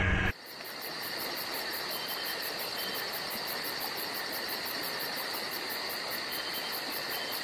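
Night insects, crickets by the sound, calling in a steady high chorus with a fast, even pulse.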